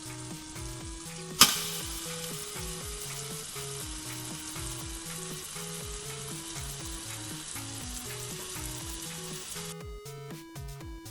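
Raw swordfish sizzling in a microwave oven, with one sharp pop about a second and a half in; the sizzling stops near the end. Background music plays throughout.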